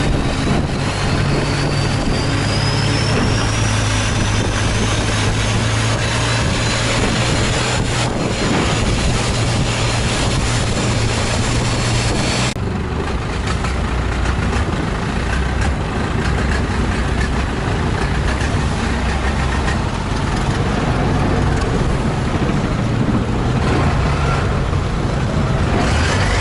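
Long-tail boat's engine running steadily under way, with a slow rising whine over the first few seconds. The sound changes abruptly about halfway through.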